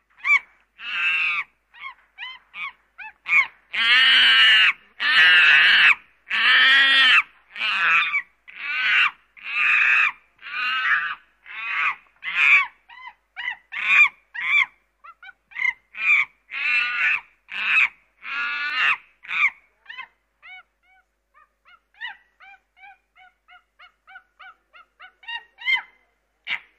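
Monkeys calling: a long string of high-pitched calls, about one a second, loudest a few seconds in, turning to a quicker run of faint short chirps in the last third before a loud call returns near the end.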